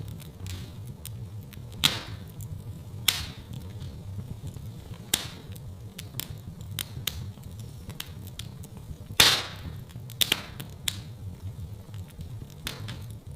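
Wood fire crackling in a fireplace: scattered sharp pops and snaps over a low steady rumble, the loudest pop about nine seconds in.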